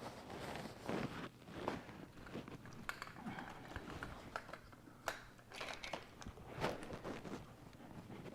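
Faint, irregular clicks, taps and rustling of small parts being handled.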